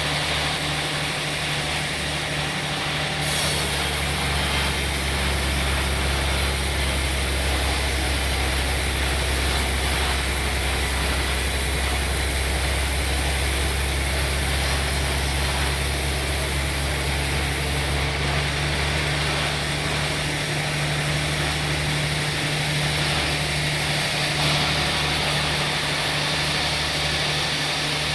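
Sawmill machinery running steadily with a deep engine hum. A brighter hiss joins in about three seconds in and drops away about eighteen seconds in.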